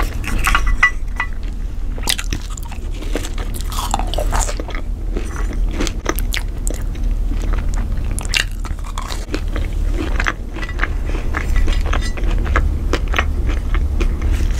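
Close-miked eating: chewing and biting crunchy crinkle-cut french fries, many small crackly clicks and crunches, over a steady low hum.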